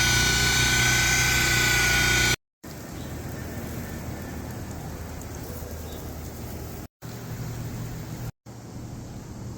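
A vehicle engine running steadily, with a low hum. It cuts off suddenly to silence about two and a half seconds in, then comes back quieter, broken by two more brief silences.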